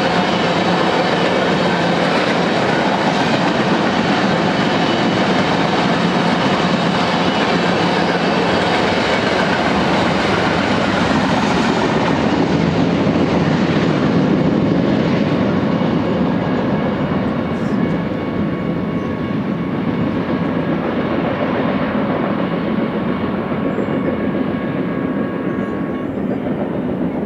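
Freight train's mixed cars (tank cars, flatcars, boxcars) rolling past on the rails with a steady wheel-and-rail rumble. The end of the train passes about halfway through, and the sound then fades as the train moves away.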